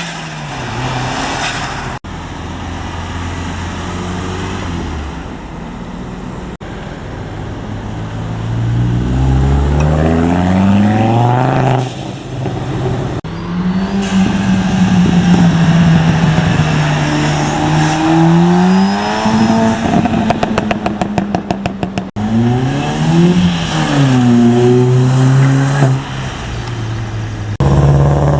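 Several car engines revving and accelerating hard in a series of short passes, pitch climbing and dropping with each gear, with a quick run of sharp cracks about two-thirds of the way through.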